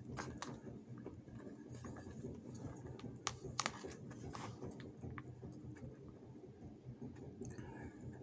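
Close-up mouth sounds of someone chewing food, with scattered soft clicks and smacks, a few sharper ones midway.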